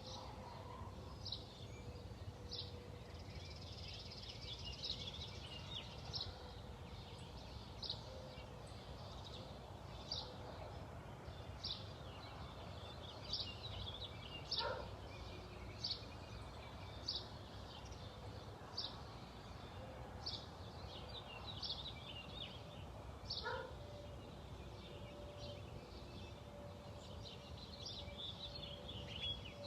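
A songbird chirping over and over, short high chirps about one a second, with a lower call twice, over a steady low background rumble.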